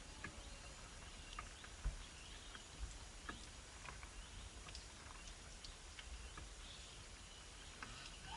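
Small birds giving faint, scattered short chirps and ticks, over a low rumble with a couple of soft thumps about two and three seconds in.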